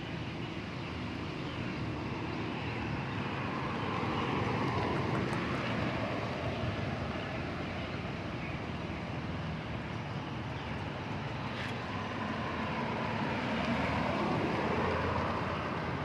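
Steady vehicle-like running noise that swells and eases slowly, with a hum whose pitch drifts up and down; it cuts off abruptly at the end.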